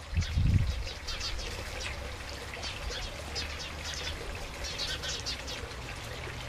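Small birds chirping over and over in short high calls. There is a brief low rumble about half a second in, with a faint low hum underneath.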